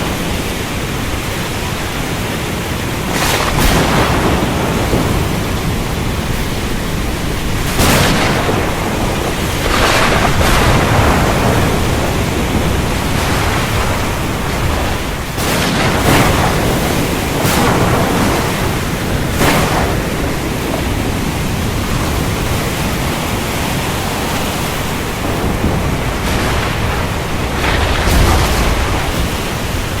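Heavy rain falling as a steady dense hiss, with thunder swelling over it every few seconds; the deepest rumbles come about a third of the way in and near the end.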